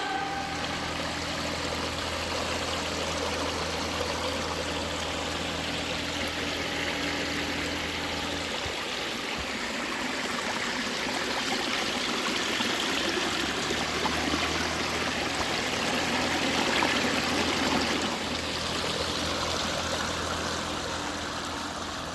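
Water running steadily down a pondless waterfall, splashing and trickling. A low steady hum sits under it, dropping out for a few seconds about a third of the way in and then coming back.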